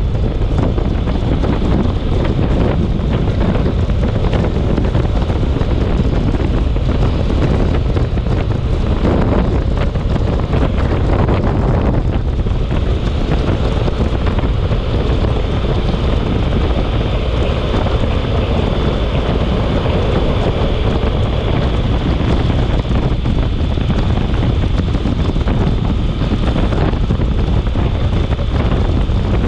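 Storm wind buffeting the microphone: a loud, steady rush of noise, heaviest in the low end.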